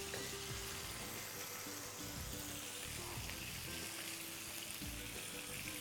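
Salmon steaks sizzling gently in a hot ridged grill pan: a soft, steady hiss. Faint background music plays under it, with quiet sustained notes.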